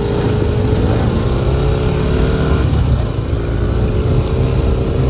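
Small off-road vehicle engine running under way, with a steady low rumble. Its note dips a little about halfway through, then comes back up.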